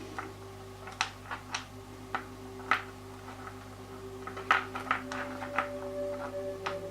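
Irregular sharp clicks and taps of pieces of rough opal knocking against each other and a hard surface as they are handled, over a faint steady hum.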